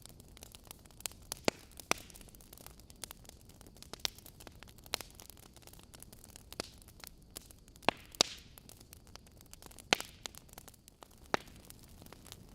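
Wood logs burning in a fireplace: irregular sharp crackles and pops over a soft steady hiss. The loudest pops come as a close pair about eight seconds in and a single one at about ten seconds.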